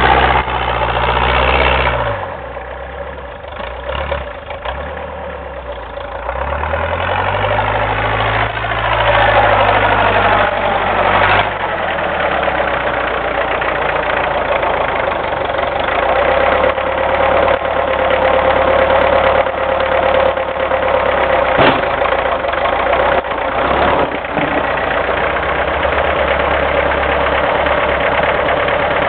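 Homemade doodlebug tractor's engine running while plowing wet, heavy snow. The revs drop about two seconds in, climb again a few seconds later, then settle into a steady run.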